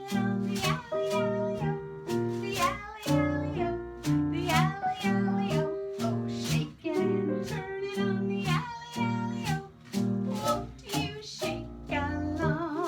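Acoustic guitar strummed in a steady rhythm as the accompaniment to a children's song, with singing over it.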